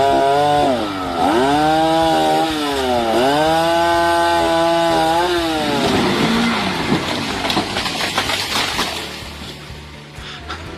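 Chainsaw engine revving, its pitch rising and dropping several times, then giving way to a rougher, noisy stretch with sharp cracks that fades near the end.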